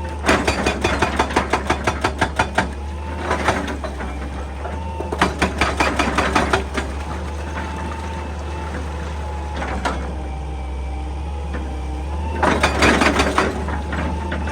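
Excavator's diesel engine running steadily, broken by bursts of rapid rattling knocks at about seven a second from the machine working against rock and sand.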